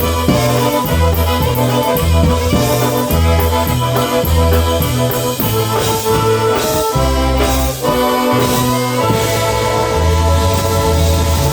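Live polka band playing an instrumental passage, the bass alternating notes on a steady, even beat under sustained melody notes.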